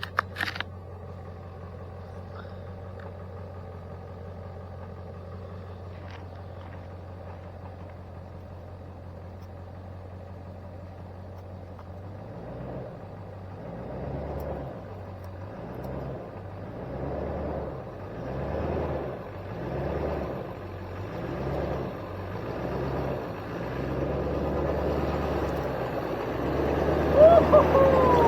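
Dodge Ram 1500's 5.7 Hemi V8 pickup engine running steadily at first. About twelve seconds in it starts surging in repeated swells, roughly one every second and a half, as the truck works up a steep, rough trail climb in four-wheel drive. It grows louder and steadier toward the end.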